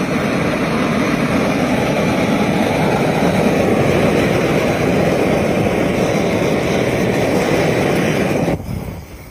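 Gas torch flame blowing steadily and loudly in a fire test of thermal facade panels, then stopping abruptly near the end.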